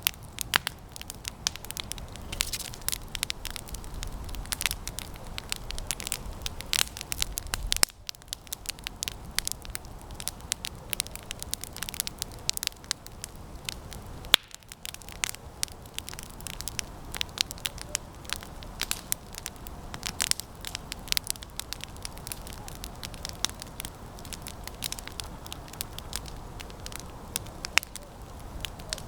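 Campfire of resinous pine branches crackling, with many irregular sharp pops and snaps.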